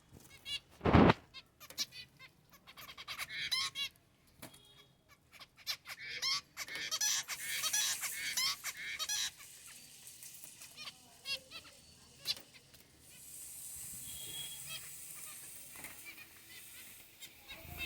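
Pet finches calling: many short, nasal, honk-like chirps in quick succession, thickest in the middle. A loud dull thump about a second in, and a steady high hiss near the end.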